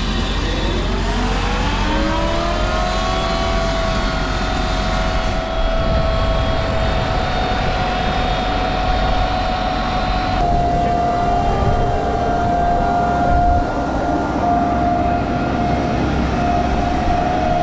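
Tractor running, with a whine that rises in pitch over the first three seconds and then holds steady as the machinery comes up to working speed.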